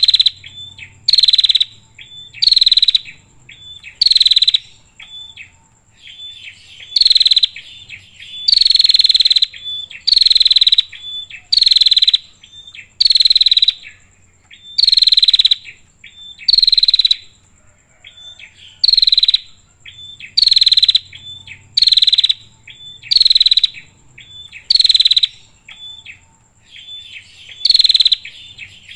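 Female prenjak (prinia) calling over and over, a loud harsh call sliding down in pitch about every second and a half, with short chip notes in between. A thin, steady high-pitched whine runs underneath.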